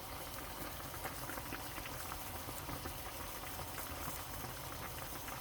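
A pot of chicken and vegetable soup boiling steadily, with a dense, irregular patter of small bubbling pops.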